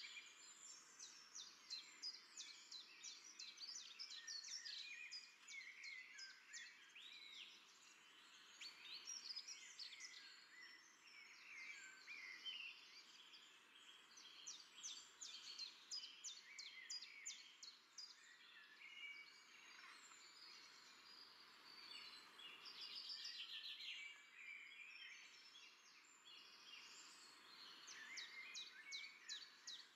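Faint chorus of many small birds chirping and twittering, with quick rapid-fire trills, over a light steady background hiss.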